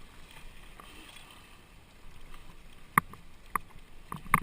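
Kayak paddling on a river: a steady low wash of water, then several sharp hard knocks in the last second and a half, such as a paddle striking the kayak's hull.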